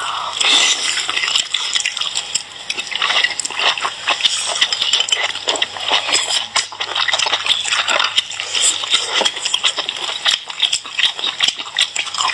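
Wet, close-up chewing and slurping of large sea snail meat dipped in sauce, a dense run of irregular smacks and clicks, with now and then a clink of shells.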